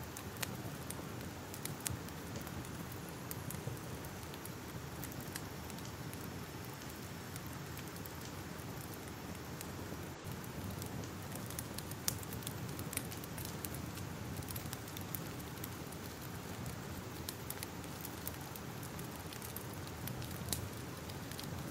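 Crackling fire: a steady low rush with scattered sharp pops and snaps at irregular intervals.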